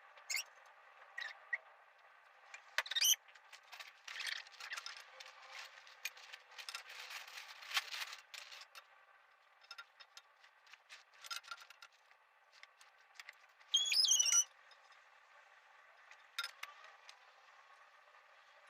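Trampoline parts being assembled: scattered clicks, knocks and scrapes, with a brief high squeak a little past the middle.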